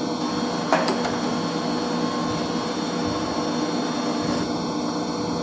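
Steady hum of running electric circulation-pump motors in a heating pump room, with a high whine over it, and one sharp click a little under a second in.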